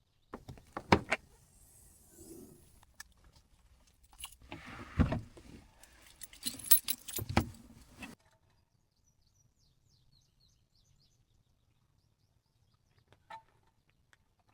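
Rummaging: a run of sharp clicks, knocks and rattles of small objects being handled, loudest about a second in and again around five and seven seconds, stopping after about eight seconds, followed by near silence with one faint click near the end.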